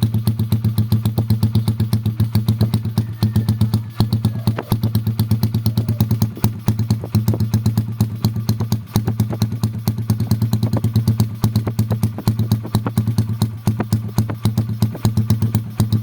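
Motorcycle engine idling, its exhaust pulsing evenly several times a second.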